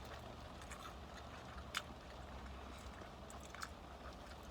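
People chewing crispy fried chicken: scattered small crunches and mouth clicks, one louder crunch about two seconds in, over a low steady hum.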